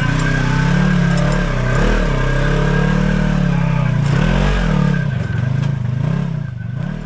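Side-by-side UTV engine revving up and down repeatedly under load while it crawls a rock obstacle, with a steady high whine over it; the engine eases off near the end.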